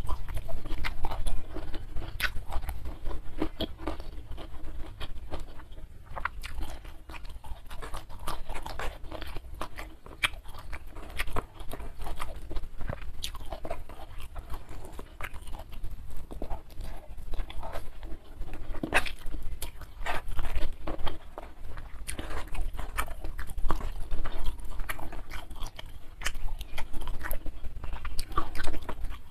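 Close-miked chewing and crunching of a mouthful of rice eaten by hand, with many sharp, wet mouth clicks, over a low steady hum.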